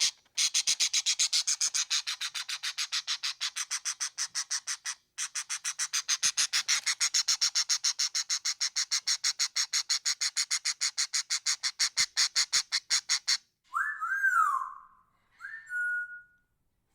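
A bird calling in a long, rapid series of harsh chattering notes, many a second, with two brief pauses. Near the end it stops and two clear whistled notes follow, one swooping up and down, the other rising and then held.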